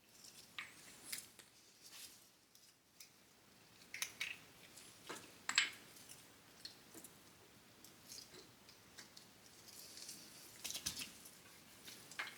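Scattered light metal clicks and scrapes as the greased link pin, shim washers and spindle of a VW Beetle link-pin front beam are worked into place by hand, with a sharper clink about four and five and a half seconds in.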